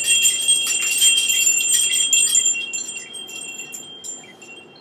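Small bells jingling: a cluster of many quick strikes over high ringing tones, starting suddenly and fading away over a few seconds.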